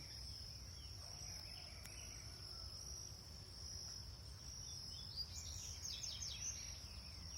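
Steady high-pitched drone of insects, with a short run of quick bird chirps about five seconds in.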